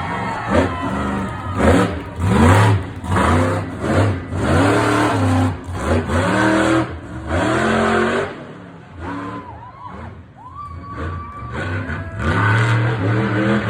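Monster truck engine revving hard in repeated bursts, the pitch climbing and dropping again and again through a freestyle run. It eases off for a couple of seconds about nine seconds in, then revs loudly again near the end.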